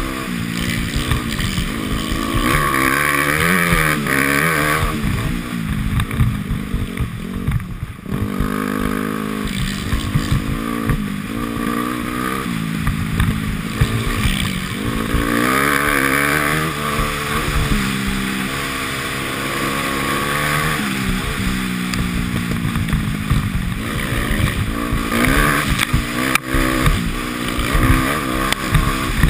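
Dirt bike engine revving up and down again and again as it is ridden hard, its pitch climbing and dropping through the gears.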